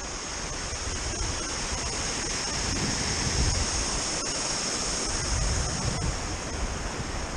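Sea surf: a steady rushing wash of waves that swells slowly.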